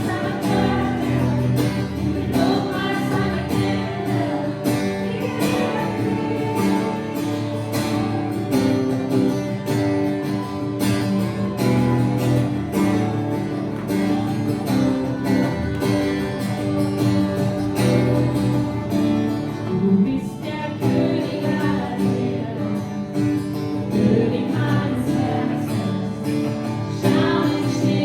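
Live worship music: singing with strummed acoustic guitar and a band playing a steady beat.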